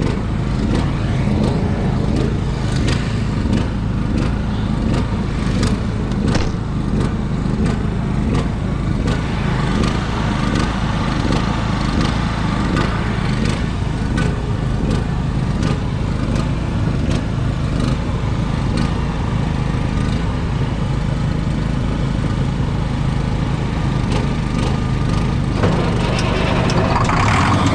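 An engine running steadily, with a constant low hum and scattered light clicks.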